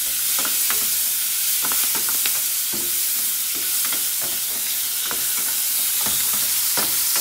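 Chopped vegetables sizzling in hot oil in a wok: a steady hiss, with irregular light knocks and scrapes, a few each second, as they are stirred.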